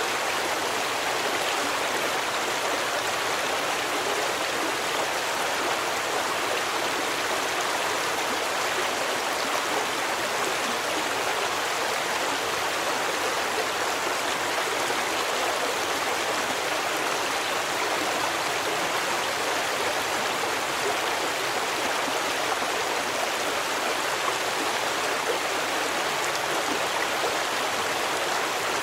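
Steady rushing of a flowing stream, running water with no breaks or changes.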